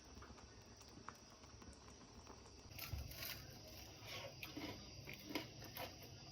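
Faint, irregular clicks and crackles over a low steady hum, beginning about three seconds in.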